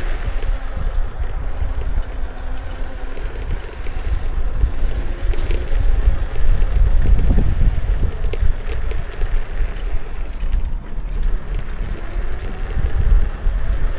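Kukirin G2 electric scooter being ridden: heavy wind buffeting on the microphone and tyre rumble on the road, with a faint motor whine that rises near the end and scattered light rattles.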